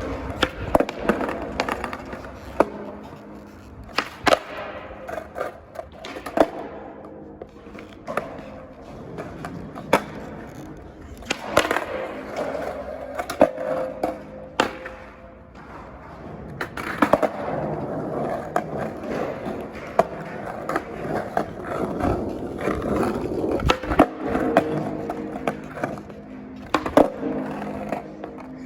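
Skateboard rolling, with many sharp clacks and bangs of the board and wheels hitting the ground as tricks are tried.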